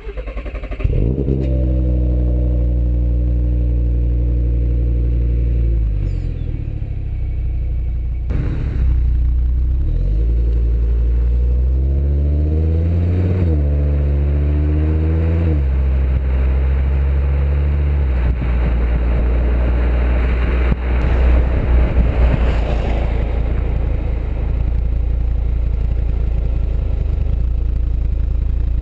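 Audi TT RS turbocharged five-cylinder engine through a decatted sports exhaust, pulling and revving so the note climbs and drops in pitch several times. From about two-thirds of the way through it turns rougher and harder-edged.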